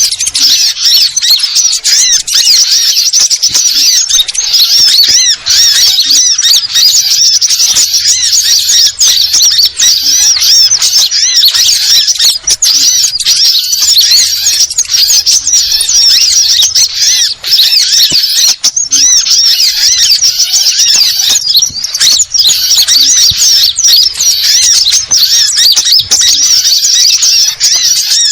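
A dense, continuous chorus of many small birds, sunbirds among them, all chirping and trilling rapidly over one another in high, busy calls: a noisy small-bird flock of the kind played as a bird lure.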